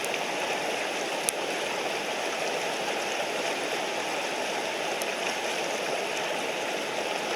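Mountain stream rushing steadily, an even wash of flowing water. Two brief sharp clicks sound over it, about a second in and again about five seconds in.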